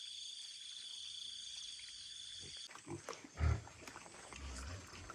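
Pigs grunting: short, low, deep grunts in the second half, the loudest about halfway through. Before them a steady high-pitched drone cuts off suddenly.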